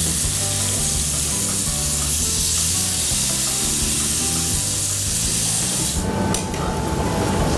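Fish fillets sizzling as they pan-fry in a skillet, a steady hiss that thins out about six seconds in, with background music underneath.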